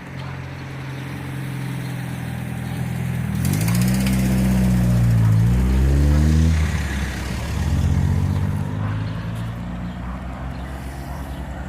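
A road vehicle's engine running close by, its pitch rising and falling as it revs and pulls away about four to six seconds in, then settling back to a steady hum of traffic.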